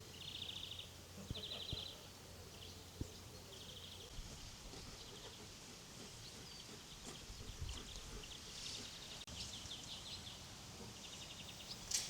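Faint rural outdoor ambience with short, rapid, high-pitched trills repeating every second or two, and a few soft knocks.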